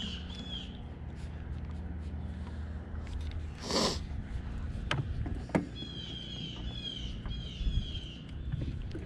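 A bird sings runs of quick, repeated falling notes, once at the start and again about two-thirds of the way through. A short hiss comes about four seconds in, followed by two sharp clicks.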